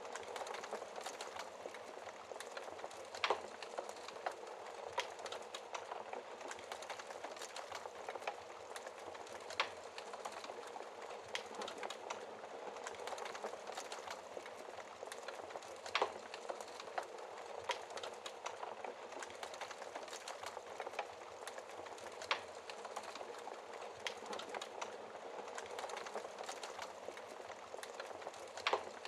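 Wood fire crackling in a fireplace: a steady hiss full of small crackles, with a few louder pops spaced several seconds apart.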